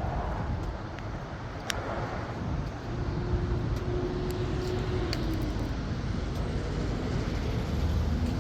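Outdoor background rumble with a few scattered light clicks, and a faint steady hum for a couple of seconds in the middle.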